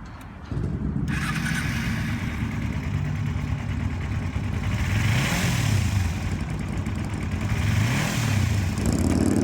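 2007 Kawasaki Ninja 250R's liquid-cooled parallel-twin engine starting up about half a second in, then running at idle with two blips of the throttle, one about five seconds in and another near eight seconds.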